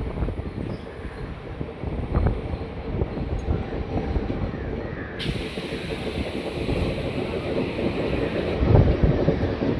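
Sangolli Rayanna Express passenger train running on the rails, heard from aboard: a steady low rumble with occasional wheel knocks. About five seconds in, a loud rushing hiss suddenly joins in.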